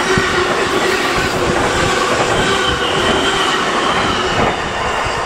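Intermodal freight train of trailers and tank containers rolling past on the near track, wheels rattling with a thin squeal. The noise eases slightly near the end as the last wagon goes by.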